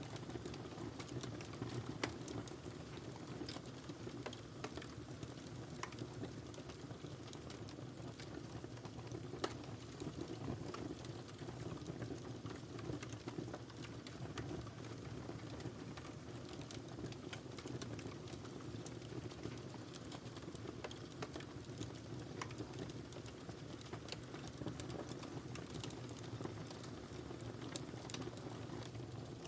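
Wood fire crackling in a fireplace: a steady low rumble of flames, with scattered pops and snaps throughout and two sharper pops, about two seconds in and near ten seconds in.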